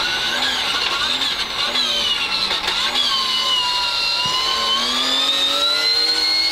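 BMW 325 rally car's engine heard from inside the cockpit on a gravel stage, its revs dipping and climbing several times as the car slows for and weaves through a tyre chicane, then rising in a long pull in the second half.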